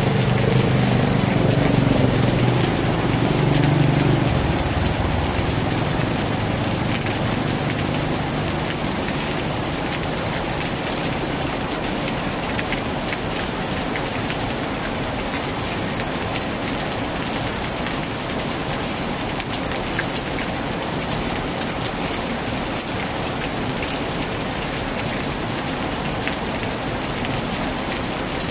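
Heavy rain falling steadily. Over the first few seconds the low hum of a vehicle engine fades away under it.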